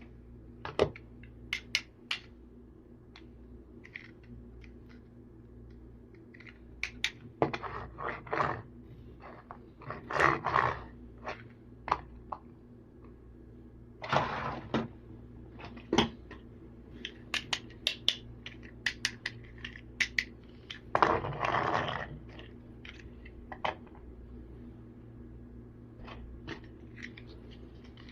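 Small plastic toy vehicles being handled: scattered clicks and light knocks, with several short scraping sounds lasting up to about a second. The longest and loudest scrapes come about ten and twenty-one seconds in. A steady low hum runs underneath.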